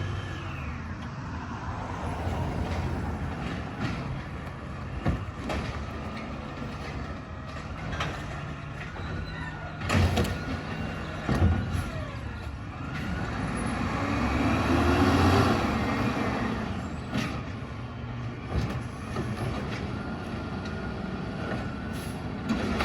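Recycling truck engine running steadily, with two loud clanks about ten and eleven seconds in and a whine that rises and falls, swelling to its loudest about fifteen seconds in.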